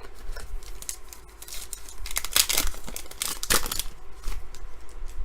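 Trading cards being handled and sorted by hand: paper-like rustling and scraping of card stock, with a few louder swishes in the middle.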